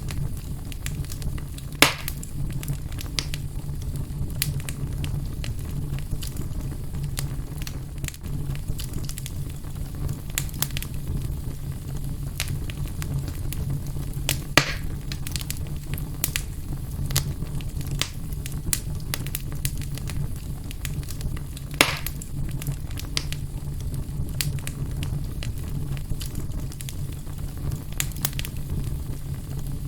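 Fireplace fire burning with a steady low rumble and constant crackling, punctuated by three louder pops about 2, 14 and 22 seconds in.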